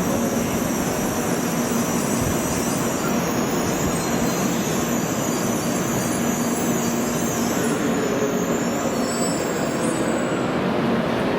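Tokaido Shinkansen train pulling into the platform and slowing: a steady rushing noise with a low hum, its high hiss dying away toward the end as the train comes to a stop.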